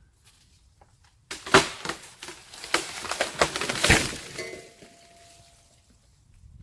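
A heavy tree branch crashing down, a sudden burst of snapping and cracking wood and thuds that starts a little over a second in, lasts about three seconds and then dies away.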